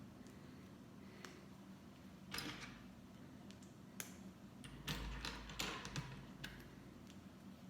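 Small plastic Lego pieces being handled and pressed together: scattered faint clicks and taps, with brief rustling twice.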